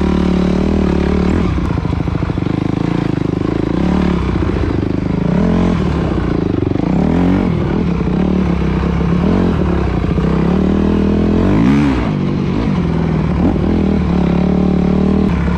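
Enduro dirt bike engine running at low revs as the bike climbs a trail, with a few short revs that rise and fall in pitch.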